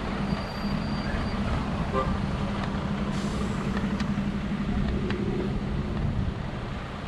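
Vehicle engine running steadily as the car moves through traffic, a low even hum over road rumble; a short hiss about three seconds in, and the hum drops away about six seconds in.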